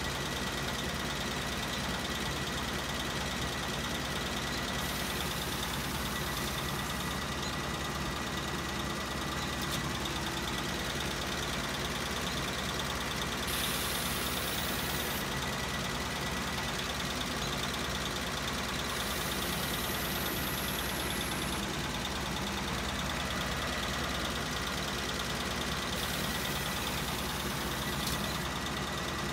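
1953 Kaiser Manhattan's straight-six engine idling steadily. Four separate high-pitched hisses of about two seconds each come from the custom front air suspension's air being let in and out, and one of them carries a falling whistle.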